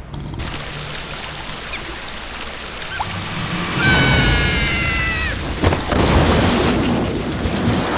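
Cartoon sound effects over music: a noisy rumble, with a high-pitched squealing cry from about four seconds in that lasts a second and a half and falls slightly in pitch, then the noise grows louder with a few knocks.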